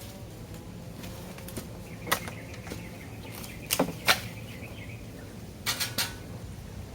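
A handful of sharp knocks: one about two seconds in, two close together about four seconds in, and a quick cluster near the end, over a steady low hiss.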